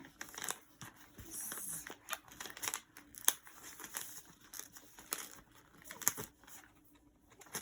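Sheet of paper being folded and creased by hand: irregular crinkling and rustling with sharp little crackles, the sharpest about three seconds in, quieter near the end.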